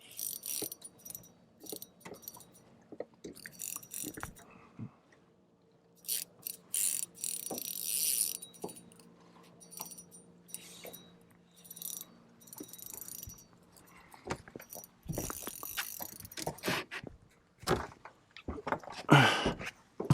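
Fishing gear being handled: irregular clicking, rattling and rustling, with a faint steady hum underneath that stops a good way in.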